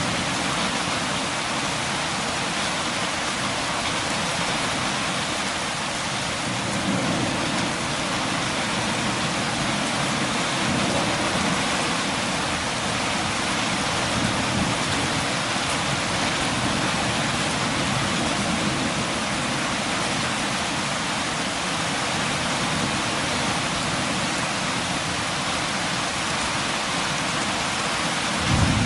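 Steady rain falling, a continuous even hiss of many drops. Near the end there is a brief low rumble.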